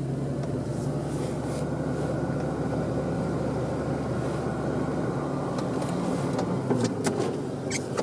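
Four-wheel-drive vehicle's engine and road noise heard from inside the cabin as it pulls away, a steady low hum whose pitch shifts briefly a little past halfway, with a few light clicks near the end.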